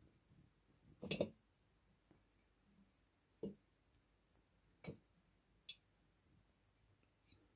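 A few soft, scattered knocks and taps in a quiet room, the loudest a quick double knock about a second in, then single taps every second or so.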